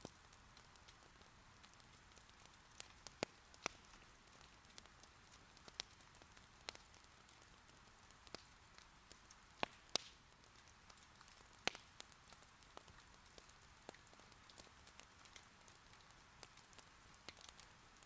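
Faint, steady hiss of light rain with irregular sharp pops and crackles of firewood burning in an irori hearth, a few of the pops louder than the rest.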